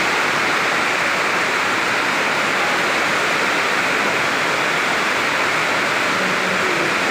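Heavy downpour in strong wind: a loud, steady, even rush of rain noise that does not change.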